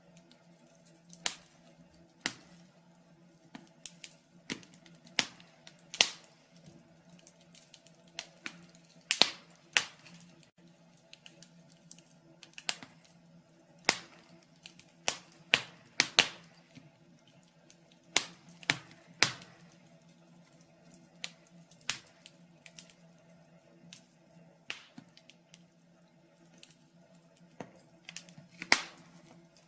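Wood fire crackling in a fireplace: irregular sharp pops and snaps, a few of them louder (about 9, 16 and 29 seconds in), over a faint steady low hum.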